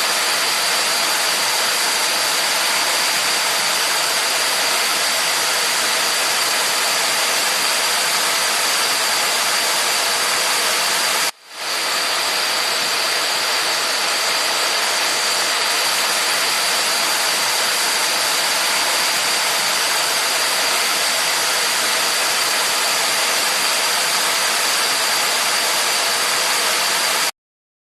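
Water rushing against rocks: a steady, even rush with a faint high tone running through it. It drops out briefly about eleven seconds in, then cuts off suddenly near the end.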